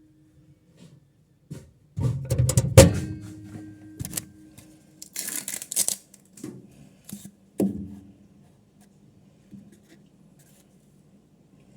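Handling knocks and thuds, a short rustle, then a sharp knock like a microwave oven door shutting, followed by the oven's faint steady low hum as it runs.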